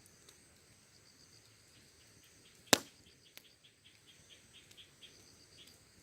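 A campfire with one sharp, loud pop from the burning wood a little under three seconds in, followed by a fainter tick. Behind it, crickets and other insects chirp steadily in a fast, even rhythm.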